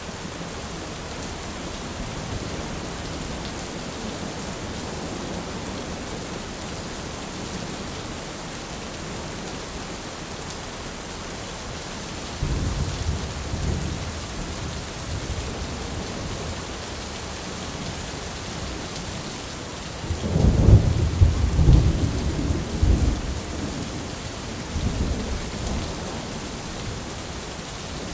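Steady rain falling, with rolls of thunder: a low rumble about twelve seconds in and a louder, longer one a few seconds later that trails off in smaller rumbles.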